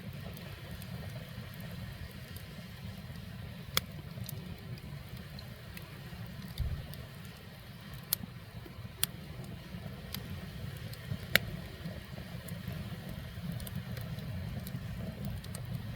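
Wood fire burning under a cast-iron cauldron: a steady low rumble with scattered sharp pops and crackles from the burning firewood, a few of them standing out loudly.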